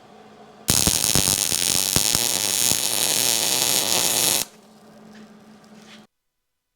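Welding arc crackling and buzzing for about four seconds, welding a nut onto a broken cylinder-head stud so the stud can be turned out. A faint low hum follows before the sound cuts off.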